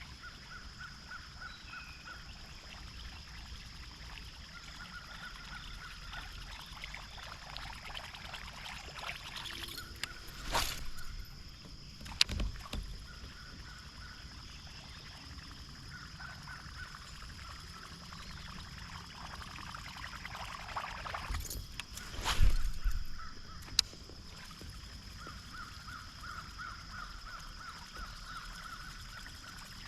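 Open-water ambience from a kayak on a creek: a high pulsing chirr comes and goes in short runs, with a few sharp clicks and two louder rushes of noise about ten and twenty-two seconds in.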